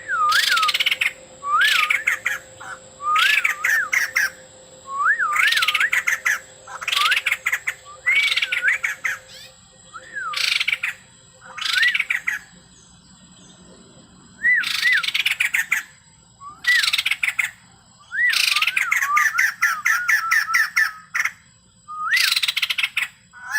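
White-crested laughingthrush singing vigorously: repeated short phrases about every one to two seconds, each made of looping whistled notes tangled with harsh, rasping chatter. There is a brief lull near the middle.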